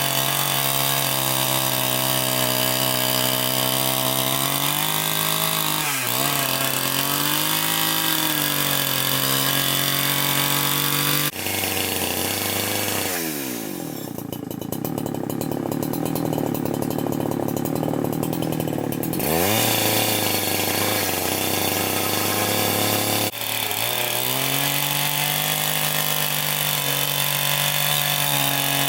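Chainsaw running at high revs. In the middle its pitch sags and then climbs back, as the engine is loaded in a cut through wood. The sound breaks off and restarts abruptly twice.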